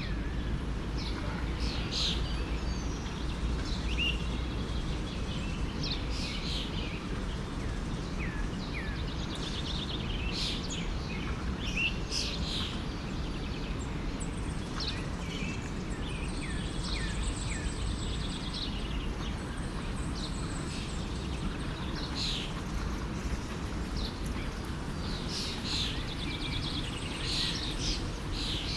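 Forest stream running steadily under many small birds chirping and singing.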